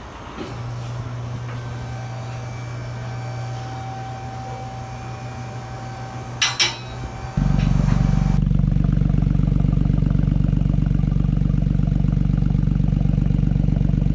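BMW i8 with a custom exhaust: a steady low hum, then a couple of sharp clicks. About halfway through, the loud, steady, evenly pulsing note of its small three-cylinder turbo engine idling through the exhaust cuts in suddenly and holds.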